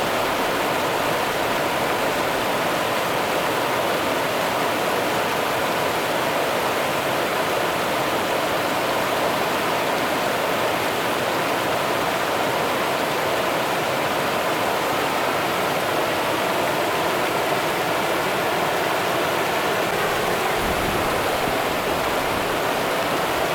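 Rio Grande river water running and rushing, a steady, even noise with no breaks.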